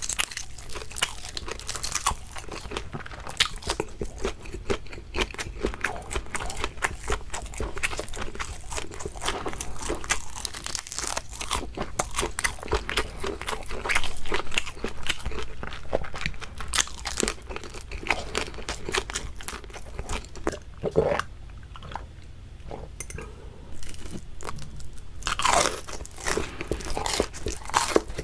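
Close-miked biting and chewing of crispy fried shrimp: dense crunching throughout, thinning out for a few seconds after the middle, then loud crunches again near the end.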